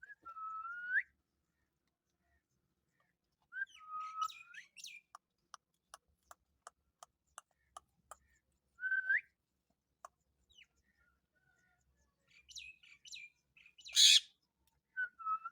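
Indian ringneck parrot making short whistled calls that rise in pitch, four times. In the middle comes a run of evenly spaced sharp clicks, about three a second, and near the end a short, loud, harsh burst.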